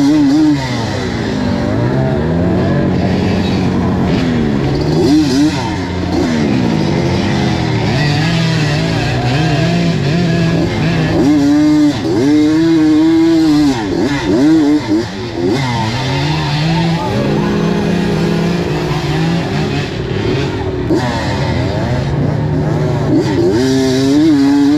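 Suzuki TS125 two-stroke single-cylinder trail bike engine revving hard over and over, its pitch climbing and dropping with the throttle and gear changes.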